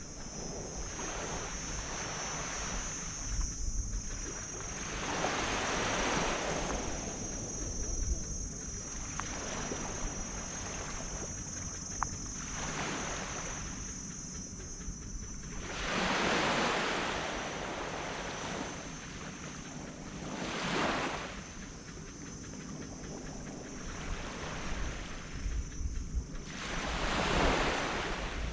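Tropical sea waves breaking and washing up a sand beach, the surf swelling and fading every four to five seconds, with a low rumble of wind on the microphone underneath.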